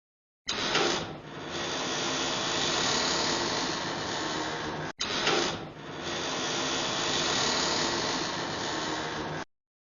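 Creaky door opening sound effect, played twice back to back. Each take lasts about four and a half seconds, with a louder start and then a long, steady, noisy creak, and the audio cuts to silence near the end.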